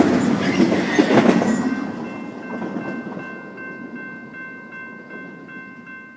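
Train passing by, its rumble and wheel clatter loud at first and fading steadily away after a second or so. As it fades, a steady high ringing tone with a faint pulse comes through and carries on.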